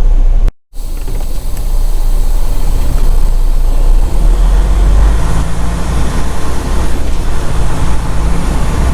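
Semi truck's engine and road noise, a steady heavy low rumble heard from the cab. The sound cuts out completely for a moment about half a second in, then resumes.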